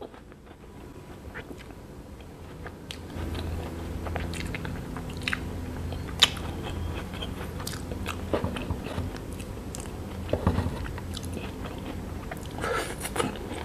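Close-miked mouth sounds of eating Oreo-coated ice cream: chewing and finger-licking, with scattered sharp clicks.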